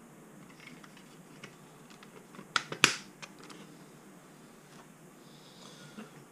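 Small plastic clicks and handling taps, with two sharp clicks close together about two and a half seconds in, as a tiny battery is fitted into the battery bay of a small foam RC plane.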